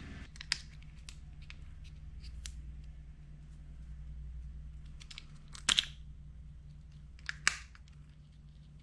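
Scattered small clicks and ticks of a plastic RC servo case being handled and opened, with two sharper double clicks, one just before six seconds in and a louder one near the end, over a low steady hum.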